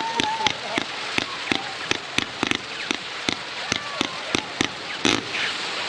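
A 49-shot firework battery (cake) firing its shots in quick succession, about three or four a second, over a steady crackle. A final, heavier shot comes about five seconds in, and the firing stops after it.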